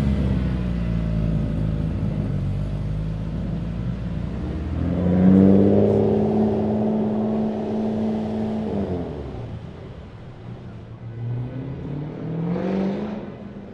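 Cars driving off one after another: a low engine rumble at first, then about five seconds in a louder engine revs up, holds a steady note for a few seconds and fades, and near the end another car accelerates away with a rising engine note.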